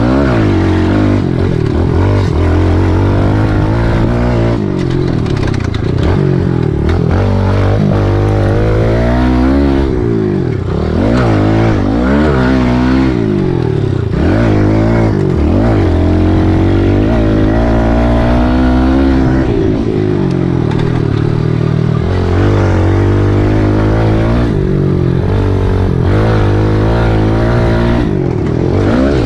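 Kawasaki KLX110L pit bike's small single-cylinder four-stroke engine being ridden, its pitch rising and falling again and again as the throttle is opened and closed.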